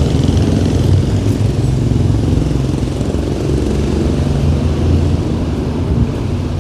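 City street traffic: motor vehicles running with a steady low rumble.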